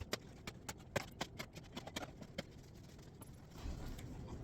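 Small products handled and packed into bags: a quick run of light clicks and taps in the first two and a half seconds, then quieter handling.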